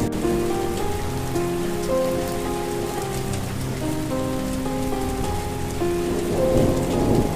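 Steady rain falling, with a soft, slow melody of held notes playing over it.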